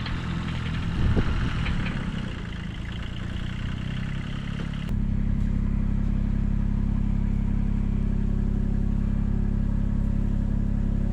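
1978 Kubota B6100 diesel tractor engine running with mechanical clatter. About five seconds in, the sound changes abruptly to a steady, even engine idle.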